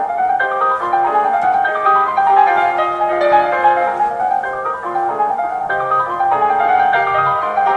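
Classical instrumental music, most likely piano, playing a quick, busy run of bright notes.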